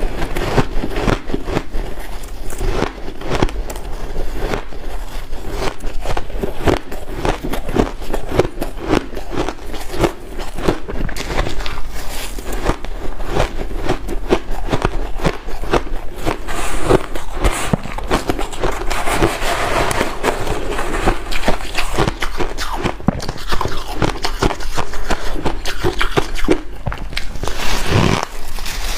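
Loud, close crunching and chewing of white ice: a dense, unbroken run of crisp crackling crunches.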